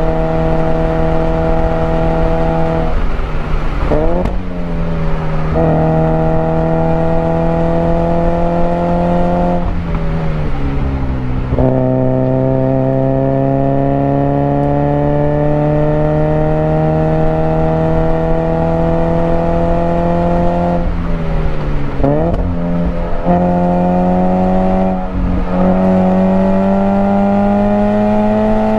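Toyota GT86's 2.0-litre flat-four engine heard from inside the cabin on a track lap. It pulls under load with its pitch climbing slowly, and four times the revs fall sharply and swing quickly back up as the car slows for corners and the automatic gearbox changes down.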